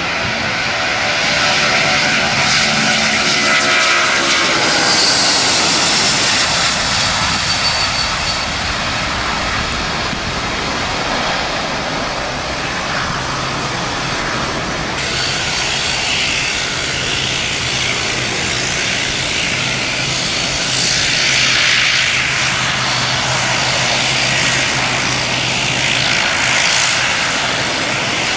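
Aircraft engines running loud as a plane passes, with a falling whine in the first few seconds, then a steady engine hum; the sound changes abruptly about halfway through.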